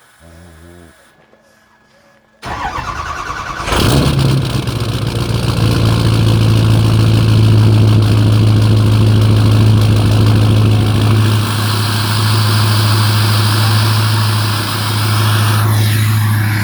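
Ford F-250's 6.0 Power Stroke turbo-diesel V8 being cold-started: it cranks for about a second, catches, and settles into a loud, steady idle.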